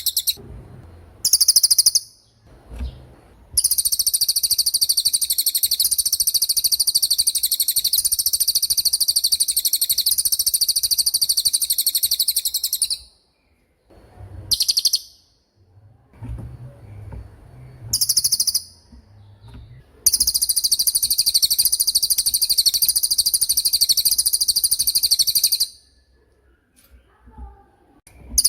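Cililin songbird singing its rapid 'tembakan' song: very fast, high-pitched repeated notes in bouts. A short burst comes near the start, then a long run of about nine seconds, two brief bursts, and another run of about five seconds.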